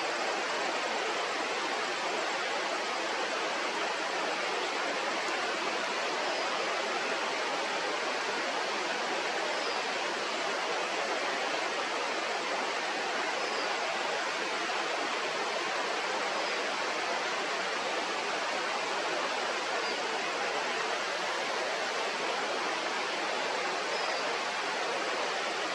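Steady rush of flowing river water, with a faint short high chirp every few seconds.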